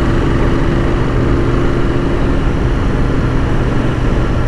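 Royal Enfield Continental GT 650's 648 cc parallel-twin engine running at a steady cruise, a constant even hum with no change in revs.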